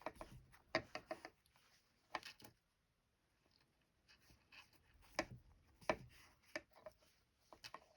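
Hand embroidery: a needle and thread being drawn through fabric in short, irregular scratchy pulls and rustles, with quiet pauses between stitches.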